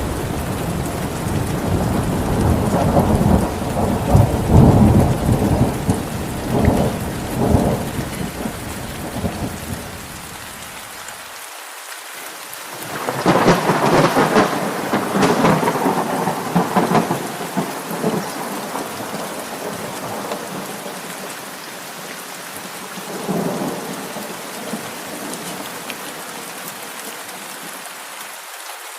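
Steady rain falling through a thunderstorm. Thunder rumbles low through the first part, a louder, sharper peal comes about halfway and rolls off, and a weaker peal follows near the end.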